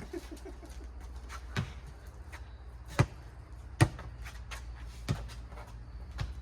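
A rubber four-square ball bouncing on pavement and being hit by hand, a few sharp smacks at irregular intervals as the rally goes on.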